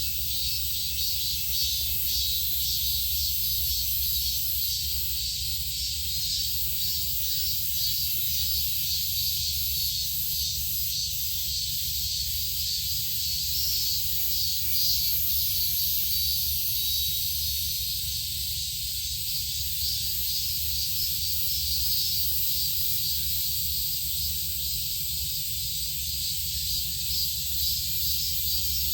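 Steady, high-pitched insect chorus with a shimmering, pulsing texture, over a constant low rumble.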